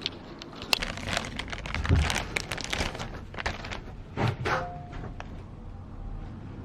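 Irregular clicks, knocks and rustling of handling, with a low thump about two seconds in.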